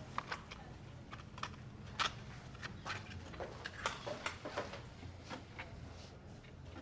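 Faint, irregular light clicks and taps, one to three a second, over a low steady hum.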